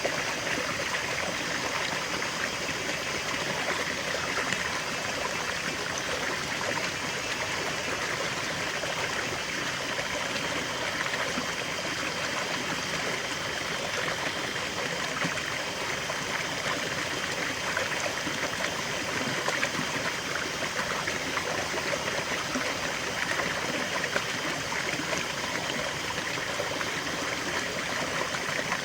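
River water flowing steadily, a continuous rushing and babbling over rocks with no break or change.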